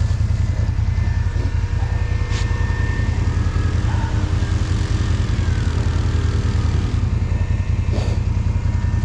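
ATV engine running with a steady low drone, holding an even pace with no clear revving up or down.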